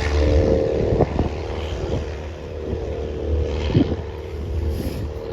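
Steady drone of a small propeller plane's engine, with wind buffeting the microphone.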